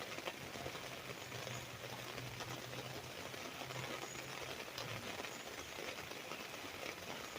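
Rain pattering steadily on an umbrella canopy, a dense, even patter of small drops. A low hum runs underneath and stops about five seconds in.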